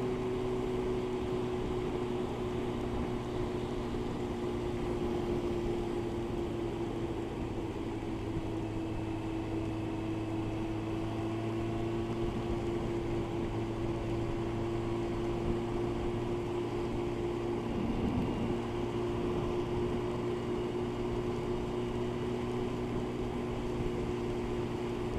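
Motorcycle engine running at a steady motorway cruise: a constant drone with wind rush over it. Its pitch sags slightly partway through, then comes back up.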